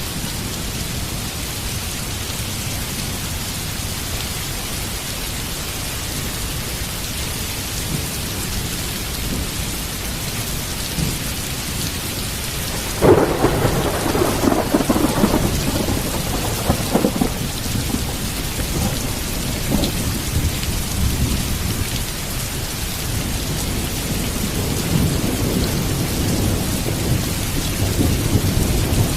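Heavy rain falling steadily, with a sudden thunderclap about halfway through that breaks into several seconds of crackling, rolling thunder; lower thunder rumbles again near the end.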